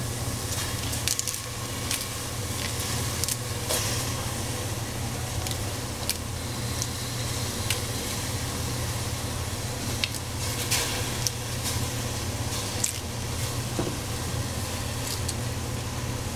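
Vegetables frying in a pan: a steady sizzle with scattered crackles and pops, over a constant low hum.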